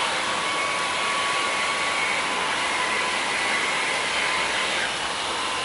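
Boat under way: a steady rushing noise of engine, wind and water, with a faint steady whine over it.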